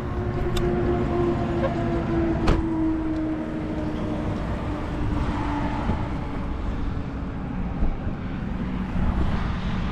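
Twin-turbo Dodge Viper's V10 running at idle: a steady low rumble with a hum whose pitch sinks slowly over several seconds. A single sharp click comes about two and a half seconds in.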